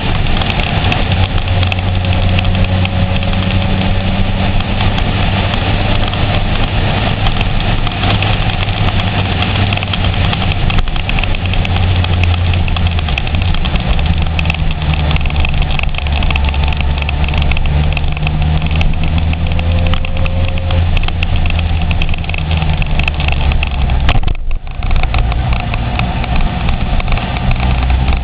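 Honda CBR900RR Fireblade's inline-four engine running under way, its note rising and falling with the throttle, over a steady rush of wind on the microphone. The sound briefly drops out about 24 seconds in.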